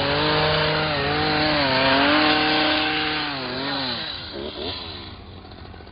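Gas hedge trimmer's small two-stroke engine running at high throttle. A little over three seconds in the pitch drops, then it revs up and down in quick blips.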